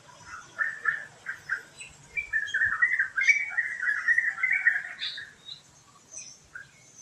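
A songbird calling: a few short separate notes, then a run of rapid chattering notes lasting about three seconds, with faint high chirps from other birds around it.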